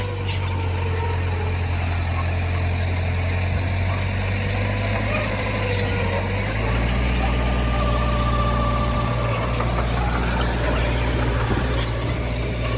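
Heavy diesel earthmoving machinery running steadily, with a deep engine drone that changes note about six and a half seconds in and a wavering whine above it.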